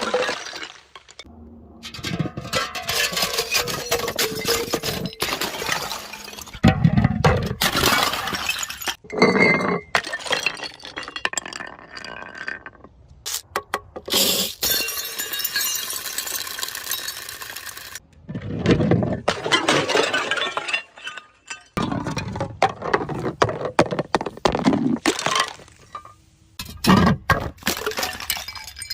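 Glass bottles shattering one after another: a series of loud crashes, each followed by tinkling, clinking shards.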